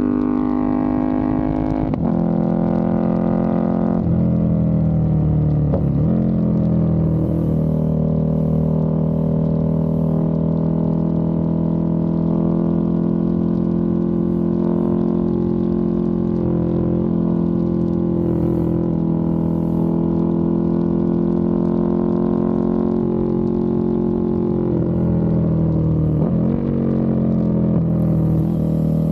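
KTM 1290 Super Duke R Evo's V-twin running through a full titanium exhaust while riding. The pitch steps several times in the first few seconds, as with gear changes, then holds a long steady note before falling near the end and picking up again.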